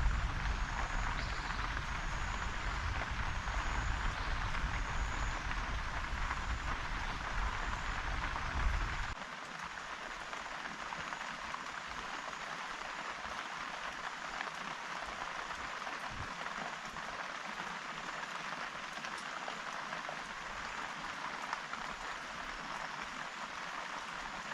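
Steady rain falling, a continuous hiss. A low rumble under it cuts off suddenly about nine seconds in.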